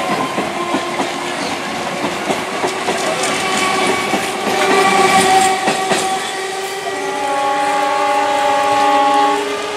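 Electric multiple unit local train running by, its wheels clattering over the rail joints. From about seven seconds in, an EMU horn sounds one long steady blast that stops shortly before the end.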